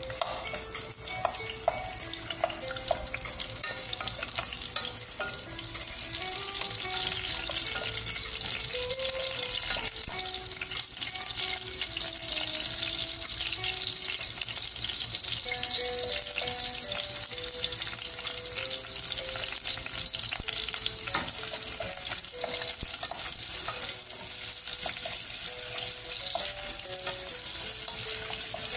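Sliced ginger sizzling steadily in hot oil in a metal pot, with a wooden spoon stirring and knocking against the pot now and then, mostly in the first few seconds. Faint background music plays underneath.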